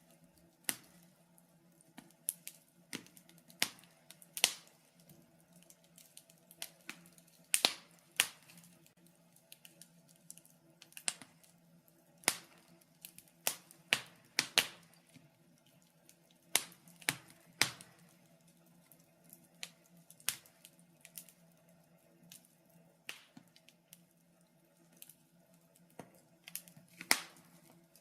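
Wood fire crackling in a fireplace: irregular sharp pops and snaps, about one or two a second, some much louder than others, over a faint steady hum.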